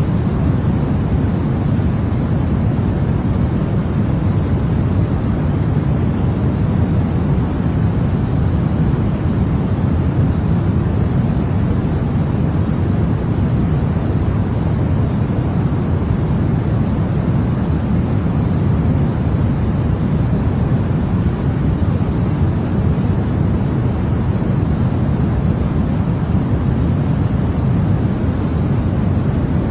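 Continuous baby-sleep white noise: an even, unbroken hiss, deep in tone, with most of its weight low and little treble. It holds steady without change.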